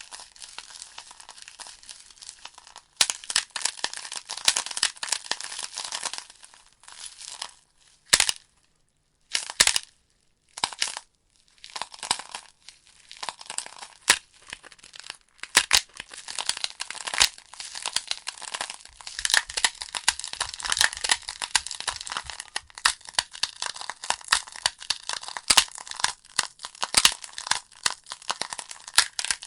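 Wood fire in a fireplace crackling and popping, dense sharp snaps of burning logs over a soft hiss. The crackle thins to a near-silent gap of a couple of seconds about eight seconds in, broken by a few lone pops, then resumes just as busily.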